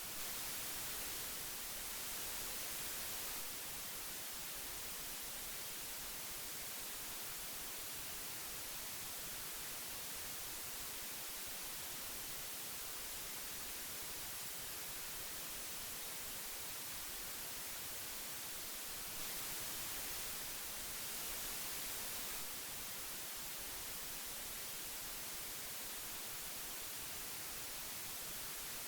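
Steady tape hiss from old magnetic audio tape: an even high hiss with no tones or clicks, briefly a little louder near the start and again about two-thirds of the way through.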